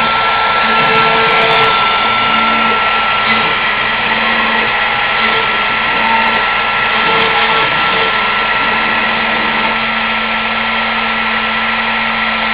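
CNC router spindle running with a steady high whine while a 3 mm cylindrical end mill cuts oak on a 3D roughing pass, the cutting noise rising and falling slightly as the tool moves.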